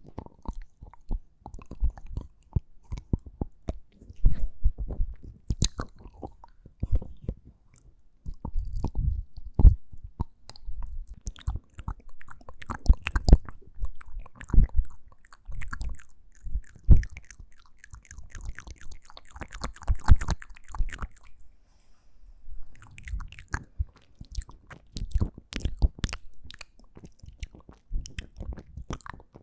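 ASMR mouth sounds: wet smacks and clicks of lips and tongue, coming rapidly and irregularly, with a short lull a little after two-thirds of the way through.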